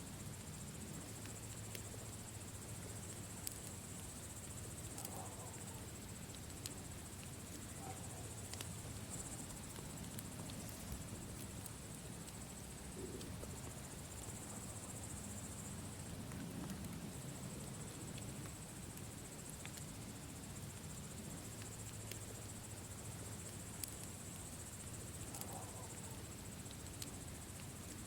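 Campfire crackling: scattered sharp pops and ticks over a steady low rush, with a high insect trill that comes and goes.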